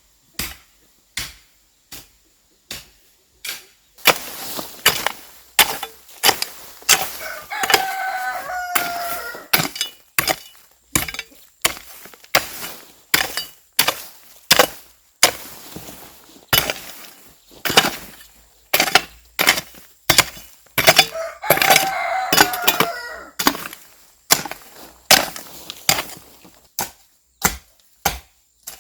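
Repeated sharp strikes of a hand tool chopping into soil, about one to two a second with short pauses. A rooster crows twice, about eight seconds in and again a little past twenty seconds.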